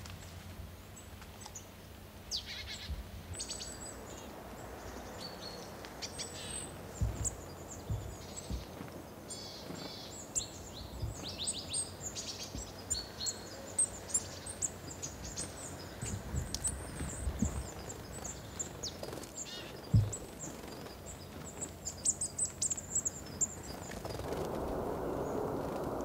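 Wild birds calling in the forest: many short, high chirps and quick call series, with a few dull low thumps, the loudest about two-thirds through. Near the end a steady rushing background noise comes in.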